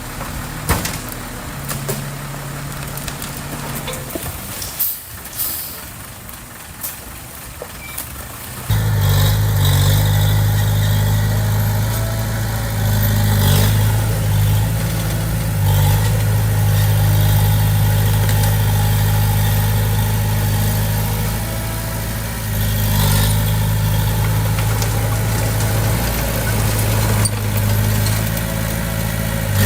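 Diesel engine of heavy earthmoving machinery running. About nine seconds in it abruptly becomes much louder and stays loud and steady, with a few clicks and knocks over it.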